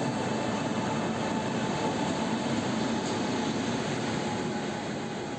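Train running on the rails: a steady rumble and rush of noise with a faint steady whine above it.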